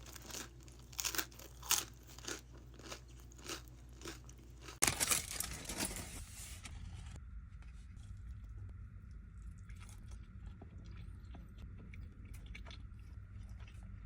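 Close-miked chewing of crunchy food, with sharp crunches about every half second. About five seconds in comes a louder noisy burst lasting a couple of seconds, then the chewing goes on more softly with small scattered clicks.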